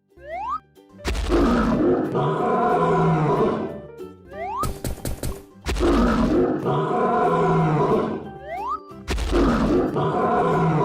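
Cartoon animal roar sound effect over music, repeating three times about every four seconds; each rough, loud roar is preceded by a quick rising whistle.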